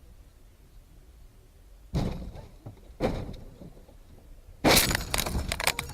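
Two sharp knocks, then a loud crash of breaking and clattering, many sharp cracks packed into about a second: an impact with something shattering.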